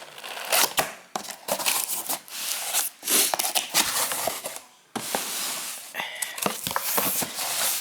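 Cardboard shipping box being torn and pried open by hand: irregular tearing, scraping and crinkling of cardboard and packing, with a brief pause just before the halfway point and a steadier tearing hiss after it.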